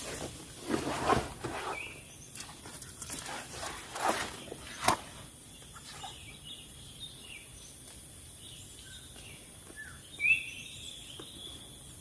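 Small birds giving short, high chirps, the loudest just after ten seconds in, with a few sharp clicks and knocks in the first five seconds.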